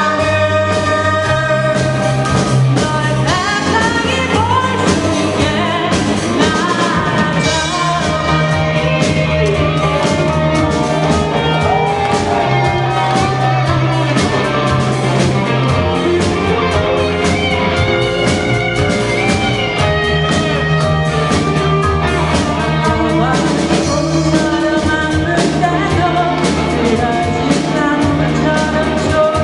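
Amateur band playing a song live: a singer over bass and a drum kit, with a steady beat.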